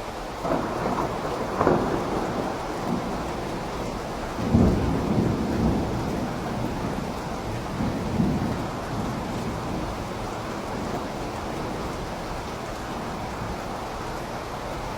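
Steady rain falling with rolling thunder: a few rumbles swell in the first half, the loudest about four and a half seconds in, then the thunder fades and the rain carries on.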